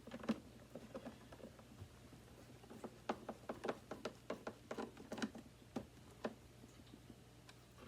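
Irregular light clicks and taps from the plastic parts of a Hoover WindTunnel 2 upright vacuum being handled, over a faint steady low hum.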